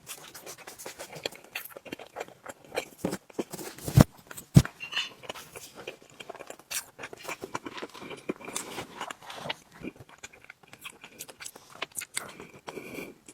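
Close-miked eating: continual chewing and wet mouth smacks, with two louder sharp clicks about four seconds in.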